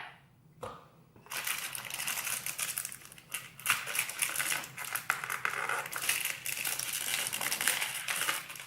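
Plastic packaging being handled and opened, crinkling and crackling continuously with many small clicks, starting about a second in.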